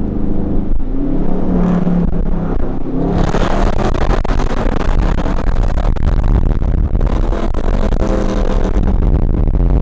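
Car with a straight-piped exhaust accelerating hard through a long pull. The engine holds a steady tone at first, then about three seconds in the exhaust gets much louder and harsher and stays that way to the end.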